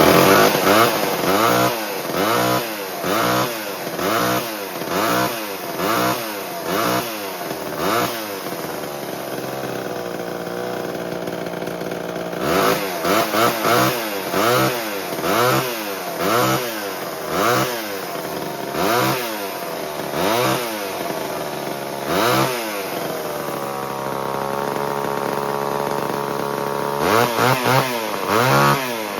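A 1978 Homelite XL12 two-stroke chainsaw, just started after years of sitting, being blipped repeatedly. The revs rise and fall about once a second in runs, with spells of steady idle between.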